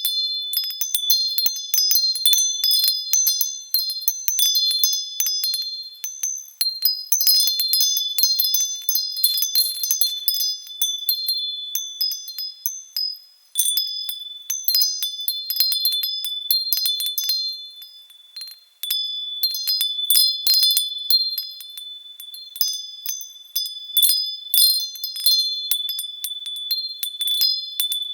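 Wind chimes stirred by the wind, ringing on and on in a jumble of high tones with frequent overlapping strikes. The ringing thins out briefly twice, then picks up again.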